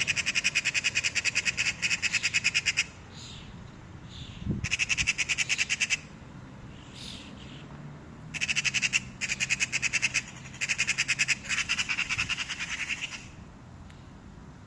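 Magpie giving its harsh, rapid rattling chatter in three long runs, the last lasting about five seconds. This is the alarm chatter magpies make at a cat.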